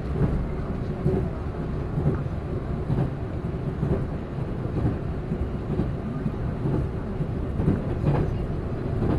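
Train running along the track, heard from inside the carriage: a steady low rumble with light knocks about once a second.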